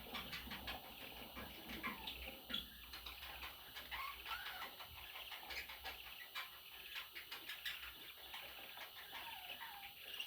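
Budgerigars chattering: scattered short chirps, clicks and brief rising and falling warbles.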